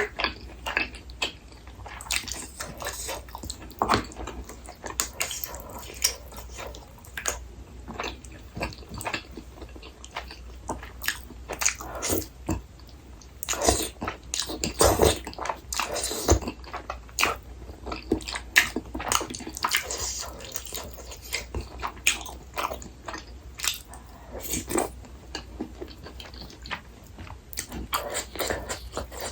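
Close-miked eating sounds of a person chewing and biting food, with irregular wet mouth clicks and smacks throughout.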